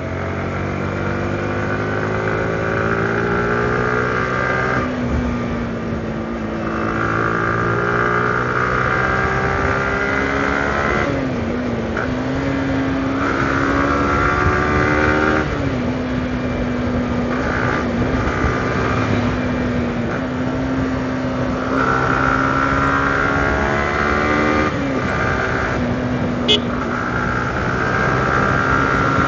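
Yamaha R15M V4's 155 cc single-cylinder engine running through its stock exhaust, its pitch climbing slowly and dropping back several times. A single sharp click comes near the end.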